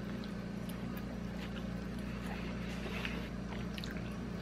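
A steady low hum, with faint wet clicks of a person chewing a bite of fried chicken.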